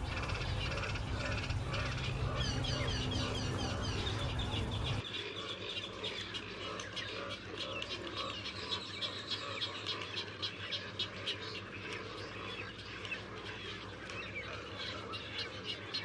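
Wild birds chirping and calling, with quick falling high notes over a low steady rumble. About five seconds in the rumble stops and a busier chorus of repeated high calls follows, with a rapid regular call near the end.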